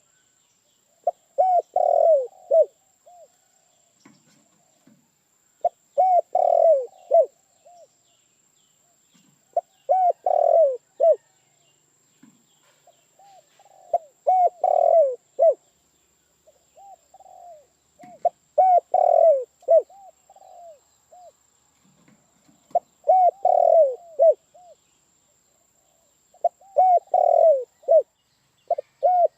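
Spotted dove cooing: a phrase of several short, arching coos, repeated about every four seconds, seven times.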